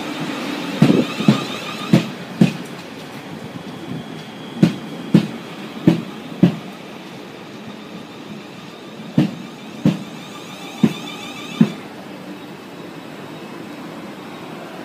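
Class 450 Desiro electric multiple-unit train running past slowly, its wheels knocking over rail joints in pairs (clickety-clack) over a steady rumble. The pairs come further apart as the train slows.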